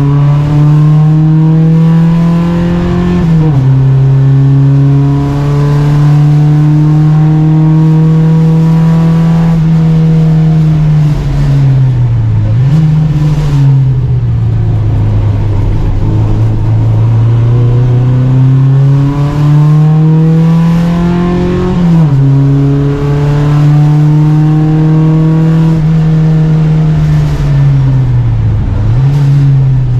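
Volvo Amazon 121 race car's four-cylinder engine at racing revs, pulling up through the gears. The pitch climbs and drops sharply at an upshift about 3 seconds in and again about 22 seconds in. It falls off as the driver lifts around 10 to 12 seconds in, with a quick rev blip on the downshift, and again with a blip near the end.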